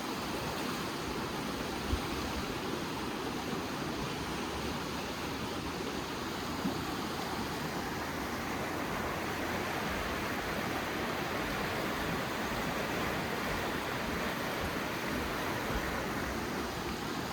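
Creek water rushing steadily, an even hiss with no letup, with a couple of faint knocks.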